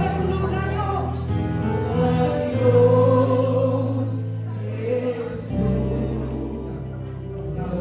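Gospel worship song: several voices singing together over instrumental accompaniment with sustained bass notes.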